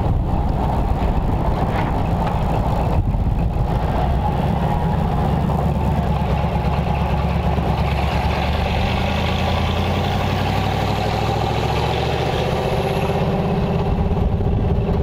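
Hot-rodded 1929 Ford Model A roadster pickup's flathead V8 running on the road with a loud exhaust, heard from its open cab. The pitch rises over the last few seconds as it speeds up.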